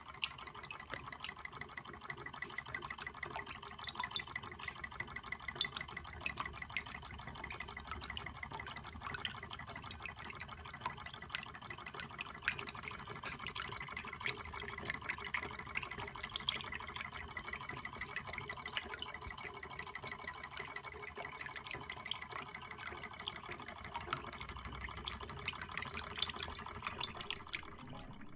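Reichelt Adler model Stirling engine running steadily and driving a small Péricaud model water pump: a rapid, even ticking of the mechanism, with water being pumped.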